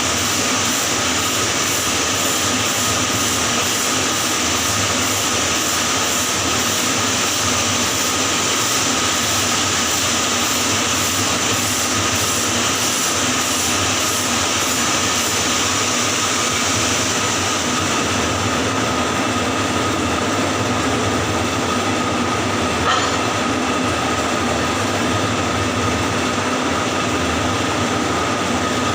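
Welding arc on pipe in the 6G position, a steady loud crackling hiss held without a break, with a faint steady tone underneath and one small tick near the end.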